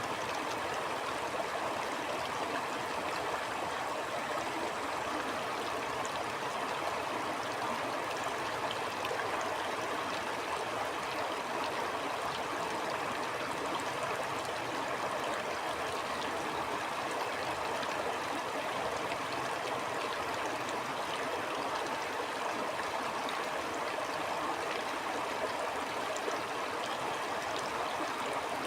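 A stream flowing steadily over rocks, a constant even rush of water with a bubbling texture and no change in level.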